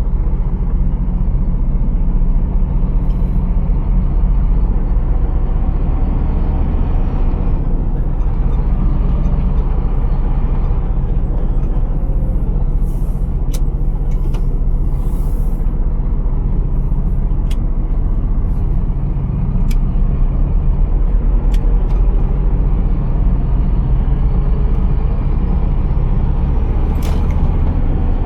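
Scania R480 truck's diesel engine running steadily, with a few sharp clicks through it.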